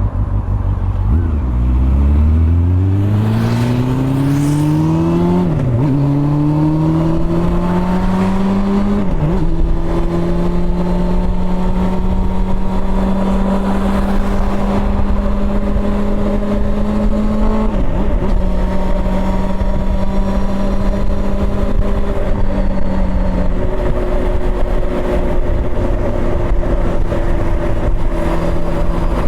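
Honda CB400 Super Four's inline-four engine pulling hard, its pitch climbing through the revs, with three brief dips as it shifts up at about 6, 9 and 18 seconds. It then settles into a steady cruise.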